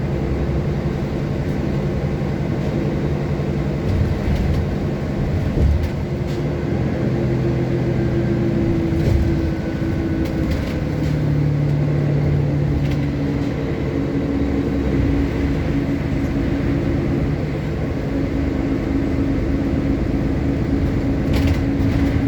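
City bus running, heard from inside: a steady engine hum whose pitch shifts a few times as the bus speeds up and slows, with a few clicks and rattles.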